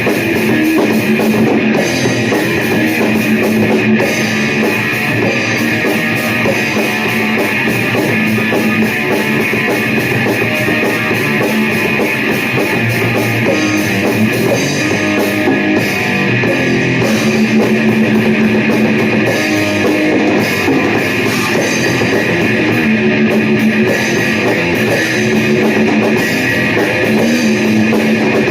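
Loud heavy rock music: electric guitars over a drum kit, played without a break.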